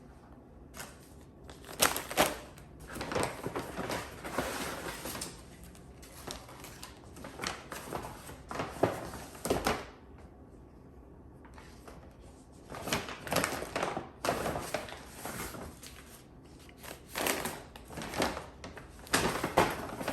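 Irregular bursts of rustling and light knocking as objects are handled, with short quiet gaps between them.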